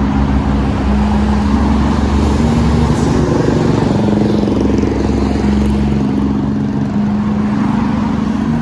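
Loud, steady wind rushing over the microphone on a sandstorm ride, with background music of held low notes underneath.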